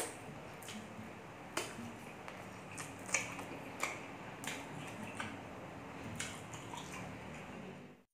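Close-miked mukbang eating sounds: wet chewing of saucy pork and rice eaten by hand, with scattered smacks and clicks. The sound cuts out abruptly near the end.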